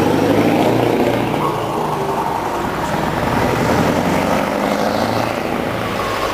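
Scania V8 diesel truck engine running steadily, its level easing a little about a second in.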